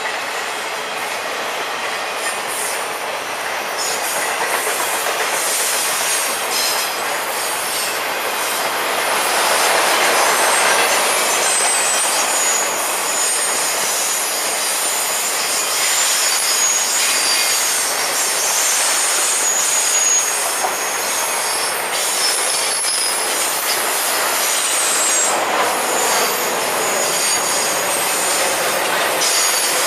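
Freight cars carrying highway trailers rolling past: a steady rush of steel wheels on rail, with high-pitched wheel squeal coming and going and a few clicks from the wheels.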